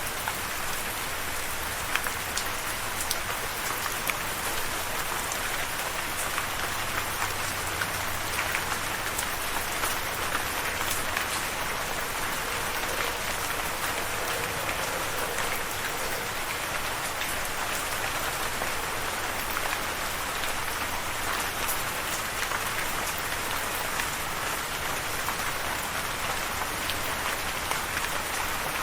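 Steady rainfall: a dense even hiss of rain with scattered individual drops ticking on a surface.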